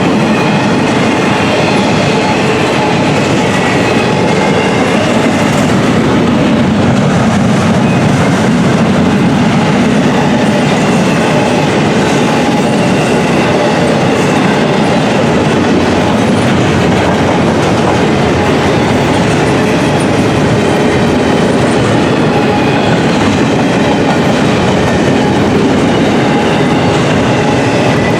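Intermodal container freight cars rolling past at steady speed, steel wheels clattering over the rail joints in a loud, continuous roll, with a faint high wheel squeal running through it.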